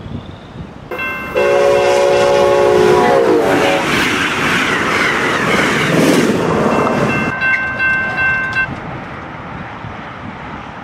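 Amtrak passenger train passing at over 100 mph: its locomotive horn blows as it approaches, the chord dropping in pitch as it goes by, then the rush of the cars passing. Another short horn blast sounds as it pulls away, and the noise fades.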